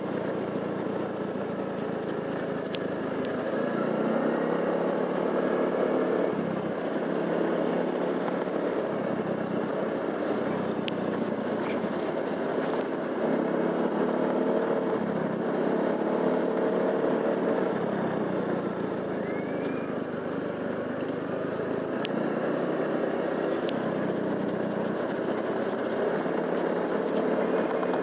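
Motorcycle engine running while riding, its pitch shifting up and down every few seconds with the throttle, over a steady rushing noise.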